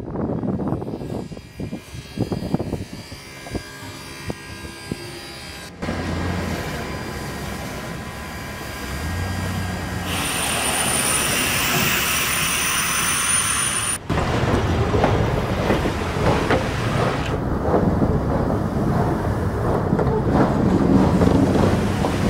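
Steam-hauled excursion train running on the rails, with a steady rumble and clatter of wheels and cars. About halfway through, a high, steady squeal lasts some four seconds.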